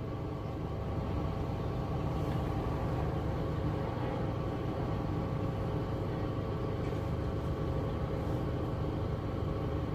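2005 Honda Civic engine idling, a steady low hum that holds even throughout.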